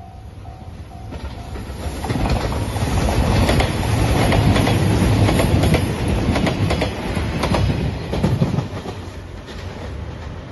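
A JR Shikoku 2700 series diesel multiple unit passing close by at speed, its wheels clicking rhythmically over the rail joints over a heavy low rumble, loudest in the middle and fading near the end. A level-crossing alarm bell rings at the start before the train drowns it out.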